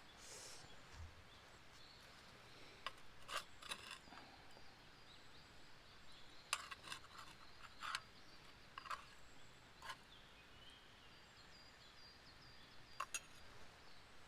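Campfire crackling quietly, with sharp irregular pops every second or so and a few in quick succession, over faint distant bird chirps.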